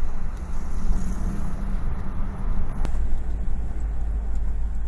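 Steady low rumble of a moving vehicle heard from inside the cabin, engine and road noise, with a sharp click near three seconds in.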